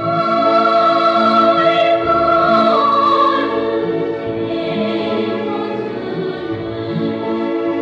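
Choir and orchestra in opera style: a chorus holds sustained notes over the orchestra, loudest in the first few seconds, then settles a little.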